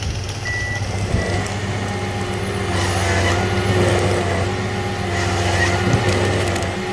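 Heavy forestry harvester's diesel engine running steadily under load, with a high whine that rises and falls several times as the machine works.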